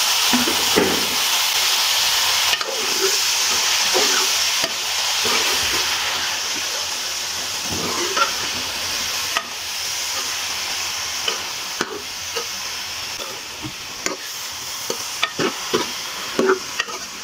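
Eggplant pieces sizzling in hot oil and tomato masala, stirred with a metal ladle that scrapes and knocks against the pan now and then. The sizzle is loudest at first and slowly dies down.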